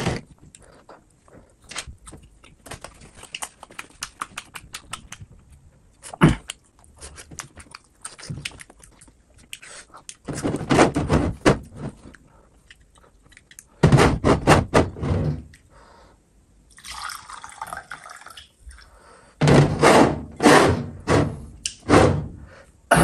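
Close-miked wet chewing and mouth noises of someone eating: dense sticky clicks and smacks, with louder bursts of squelchy chewing in three spells, the last near the end.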